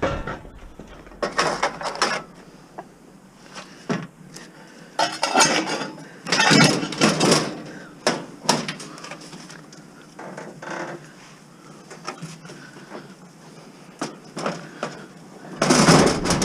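Metal scrap parts from a dishwasher being handled: irregular clattering, rattling and knocks, with quieter gaps and a louder clatter near the end.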